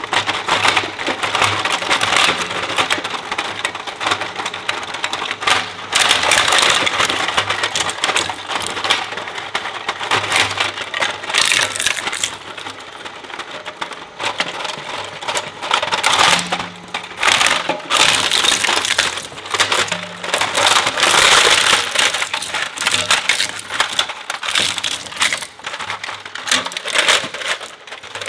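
Industrial shredder chewing up plastic and metal: a dense, continuous crackle of crunching, snapping and rattling pieces, swelling in louder surges every few seconds.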